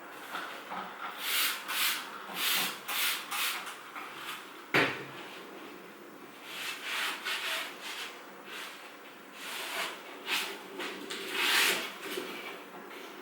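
Paint being applied by hand in repeated rubbing strokes, about two a second in runs with short pauses, with a single sharp knock about five seconds in.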